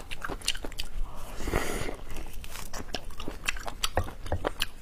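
Close-miked chewing and biting of spicy braised beef bone marrow, with many sharp mouth clicks and a longer noisy sound about a second and a half in.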